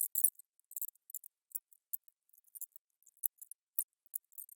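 Torque wrench ratchet clicking in short irregular runs, a few clicks a second, as the intake manifold bolts on a Chevy 350 small-block are tightened.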